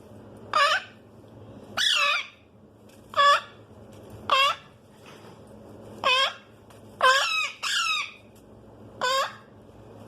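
Parrot chicks calling: about eight short calls, roughly one every second or so, with two coming close together a little past halfway.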